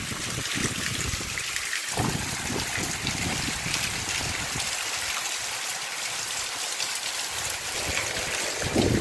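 Heavy rain pouring down in a steady hiss on the street and rooftops. Gusts of wind buffet the microphone near the end.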